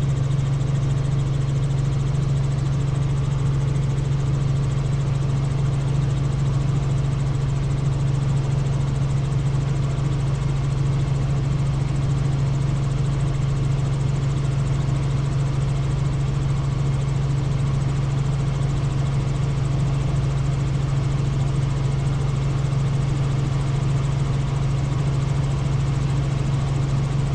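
Helicopter in steady flight: a constant low drone of rotor and engine with even noise over it, unchanging in pitch and level.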